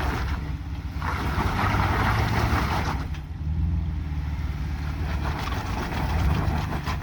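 Jeep engine running steadily at low revs. A rushing hiss rises over it from about one to three seconds in.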